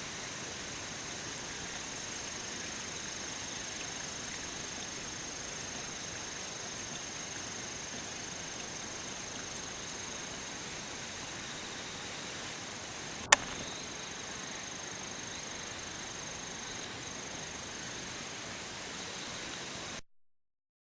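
Steady background hiss with faint, steady high-pitched tones, broken once about thirteen seconds in by a single sharp click.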